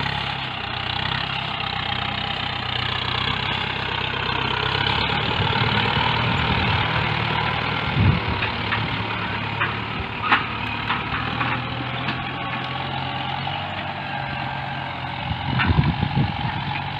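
Tractor engine running steadily while ploughing a field, with a few short knocks about eight, ten and sixteen seconds in.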